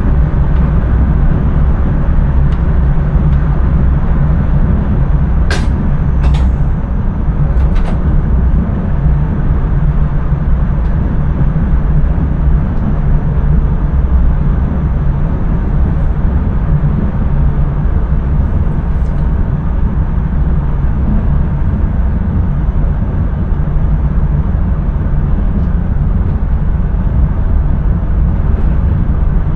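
Intercity train running steadily, heard inside the driver's cab as a constant low rumble and rolling noise. A few sharp clicks come between about five and eight seconds in.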